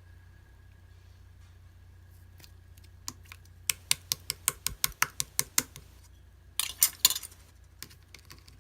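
A run of sharp clicks, about five a second, starting about three seconds in. A denser clatter follows near seven seconds, then a couple of single clicks, over a steady low hum.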